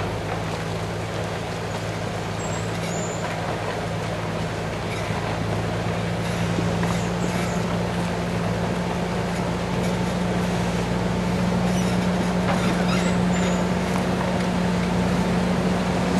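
Heavy vehicle engine running steadily with a low, even hum, growing gradually louder, typical of road-work machinery or a truck on a road repair site.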